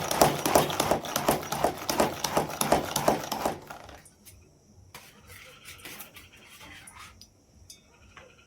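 A loud, rapid clatter of sharp knocks for the first three and a half seconds, then it drops away to faint croaking frogs with a steady high insect-like trill behind them.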